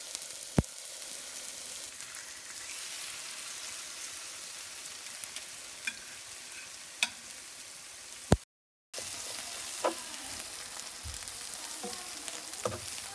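Seasoned chicken tenderloins sizzling as they sauté in hot olive oil in a pan, a steady hiss with a few sharp clicks; the sizzle breaks off for about half a second past the middle, then carries on.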